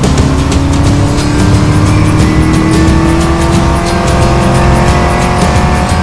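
A car engine accelerating, its pitch climbing slowly and steadily, over background music with a steady beat.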